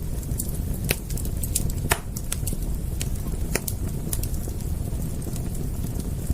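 Wood fire crackling, with irregular sharp pops and snaps, a few louder ones about one and two seconds in, over a steady low rumble.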